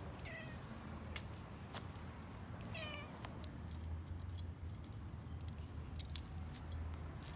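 A domestic cat gives two short meows, about a third of a second in and again near three seconds, each dipping slightly in pitch. Scattered light clicks and a steady low hum lie under them.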